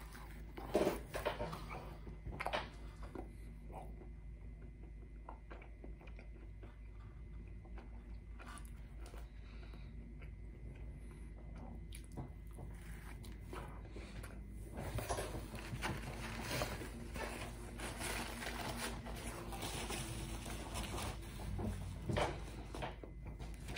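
A person biting into and chewing cold pepperoni pizza close to the microphone. There are a few sharp bites in the first seconds, quieter chewing after them, and denser, louder chewing with crunching crust from about halfway on.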